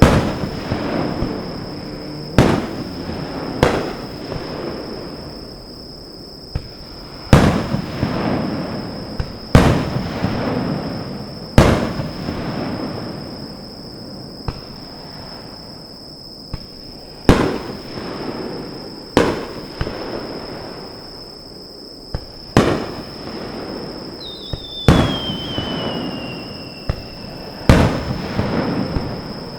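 Aerial fireworks shells bursting overhead: about a dozen sharp booming bangs, one every two seconds or so, each trailing off in a long rumbling echo and crackle. A falling whistle from a shell sounds a few seconds before the end.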